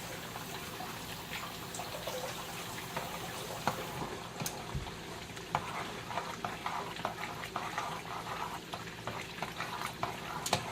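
Battered chicken frying in a pan: a steady sizzle, with small clicks and taps that come more often in the second half.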